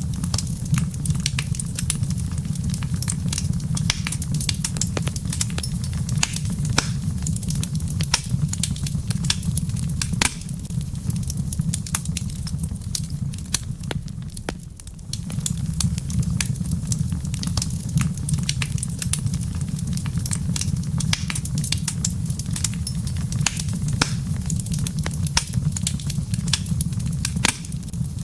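Wood fire crackling in a fireplace: frequent sharp pops and snaps over a steady low rumble of burning, which dips briefly about halfway through.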